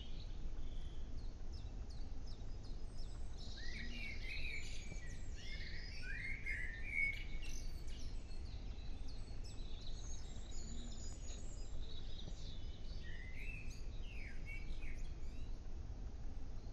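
Birds chirping and singing, calling most busily a few seconds in, over a steady low background rumble.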